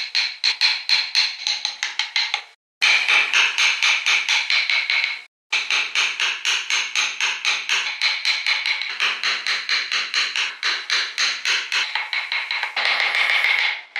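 Rapid, evenly spaced tapping strikes on wood, about five a second, cut off abruptly twice.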